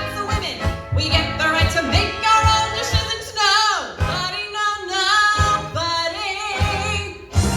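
A woman singing a show-tune parody with vibrato on held notes, over an accompaniment with a steady bass beat.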